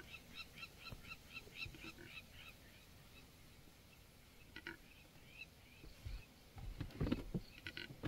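A bird calling a rapid run of repeated high notes, about five a second, that fade out within the first few seconds; a few single short calls follow, and a low rustling thump comes near the end.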